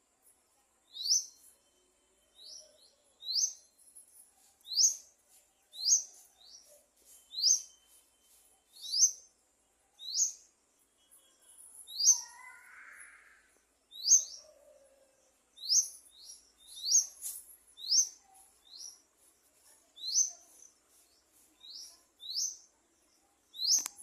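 A single bird repeating a short, sharp, high chirp, each call sweeping quickly downward in pitch. The calls come about once a second, sometimes two or three in quick succession.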